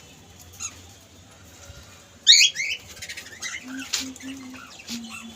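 Pet parrot calling in short, high chirps, loudest about two seconds in, with a few softer chirps after.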